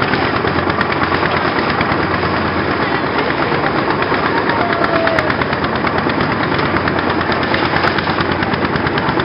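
Motorboat engine running steadily, a rapid even pulsing.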